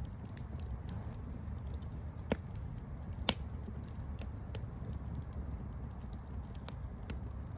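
Campfire burning with a steady low rumble and scattered sharp crackles and pops, the loudest pop about three seconds in.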